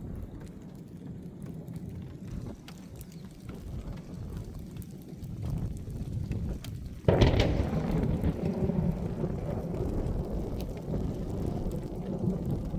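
Thunder from a close positive lightning strike: a sudden explosive crack about seven seconds in, then a rolling rumble that carries on. Before it there is a low, steady rumbling noise.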